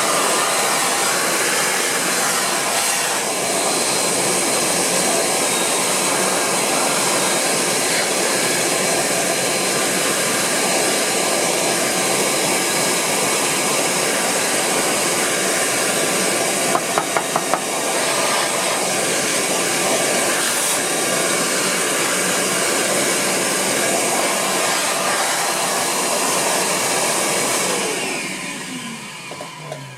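Vacuum cleaner running steadily while vacuuming dust out of an opened electronics box, with a few quick clicks about seventeen seconds in. The motor winds down and stops near the end.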